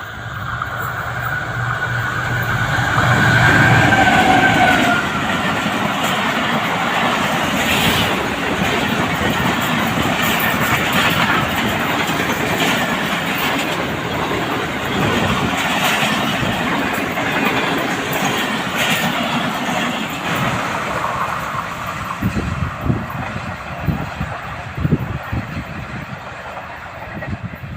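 Khyber Mail passenger train passing at full speed: a high steady tone over the first few seconds, the loudest rush about four seconds in as the locomotive goes by, then a long continuous rumble of coaches. From about 22 seconds the wheels' clickety-clack over the rail joints stands out as the last coaches pass and the sound thins.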